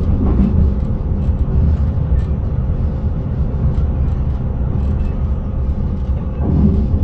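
Passenger train running along the line, heard from inside the driver's cab: a steady low rumble of wheels and running gear.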